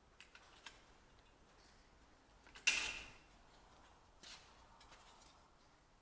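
Sheet-metal shrinker working the edge of a small steel repair panel. A few light clicks come near the start, then one sharp metallic clank with a brief ring about two and a half seconds in, and a softer knock a little over a second later.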